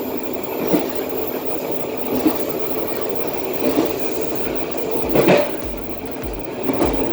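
Passenger train running along the track, heard from the rear car: a steady rumble of wheels on rail, with sharp clicks every second or two as the wheels cross rail joints.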